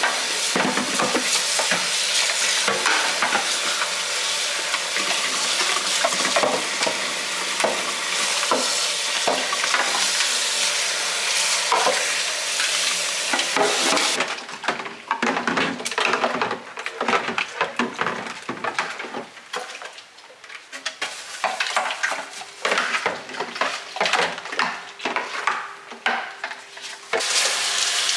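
Fridge clean-out handling sounds: a steady hiss with knocks and clinks of containers and shelves. About halfway through it breaks up into short stop-start bursts, then turns steady again near the end.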